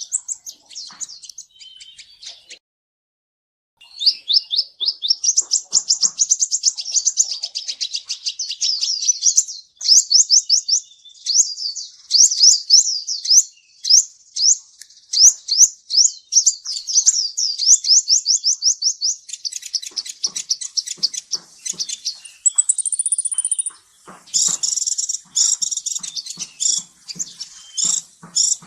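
Kolibri ninja sunbird singing: fast, high-pitched runs of sharp notes and rapid trills, broken by a brief silence about three seconds in. Near the end the song comes with a run of dry clicks.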